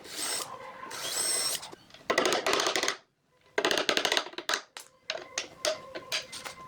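Woodworking tools working wood in a string of short bursts of varying length, ending in a run of quick short strokes, with a sudden break about three seconds in.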